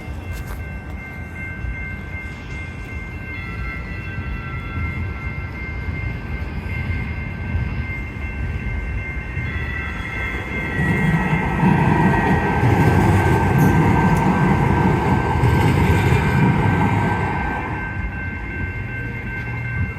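Light rail train passing. Its rumble builds to a peak about eleven seconds in and eases off near the end, with steady high-pitched whine tones throughout.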